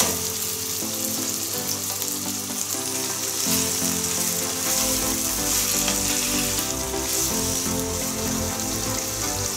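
Raw meat pieces sizzling in hot oil with frying onions in a pot, steady and hissing, while being stirred with a wooden spoon.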